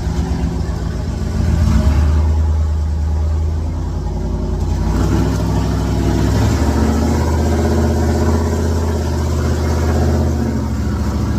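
Mega truck's engine revving hard under load while pulling a pickup stuck deep in mud. It swells louder about a second and a half in, and its pitch wavers up and down as the throttle works.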